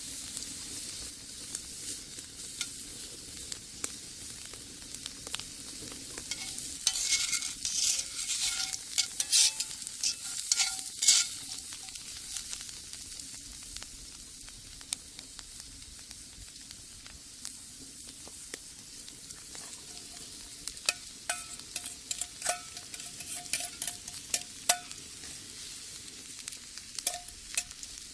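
Food frying with a steady sizzle in a cast-iron skillet, while a utensil stirs, scrapes and clinks against the pan in two busy stretches, with short metallic pings.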